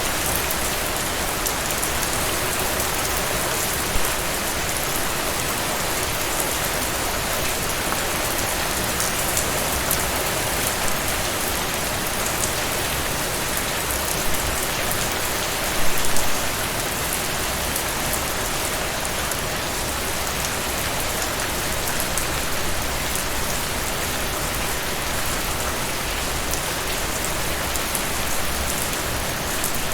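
Heavy rain falling steadily, a dense even hiss of drops, with a brief louder moment about four seconds in and a stronger one about sixteen seconds in.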